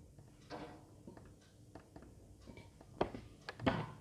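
Faint clicks and taps of hands handling biscuits and Polo mints, with a couple of louder taps about three seconds in and near the end.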